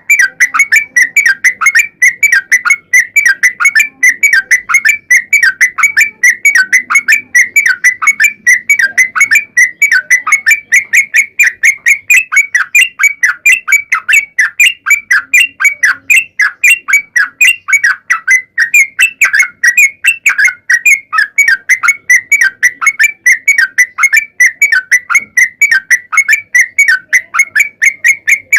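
Yellow-vented bulbul (trucukan) singing a long, unbroken run of rapid notes, several a second, the fast rolling song that keepers use as a lure to set other bulbuls singing.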